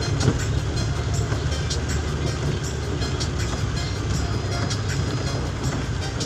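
Steady low rumble of a vehicle travelling in heavy rain, with scattered sharp ticks of raindrops.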